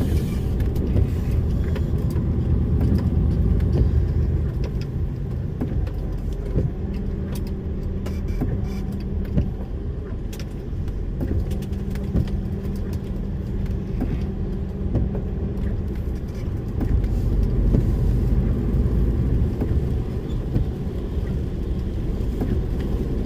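DAF lorry's diesel engine running steadily under way, lightly laden, with road noise and scattered clicks and knocks.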